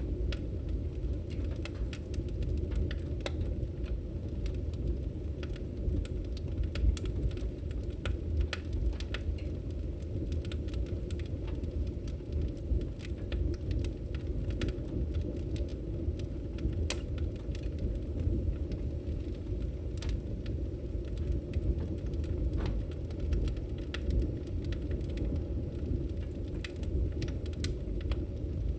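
Wood fire crackling in a fireplace: steady low noise with sharp pops and snaps scattered at irregular intervals.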